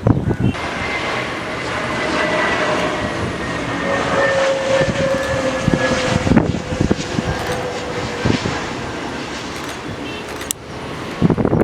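Jet airliner passing on its landing approach: a steady engine roar with a whine slowly falling in pitch as it goes by. Gusts of wind buffet the microphone.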